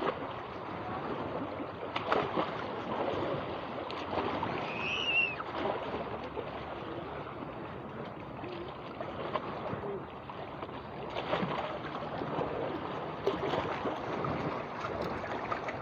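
Steady rushing noise aboard a boat at sea, with faint voices in the background and a brief high squeak about five seconds in.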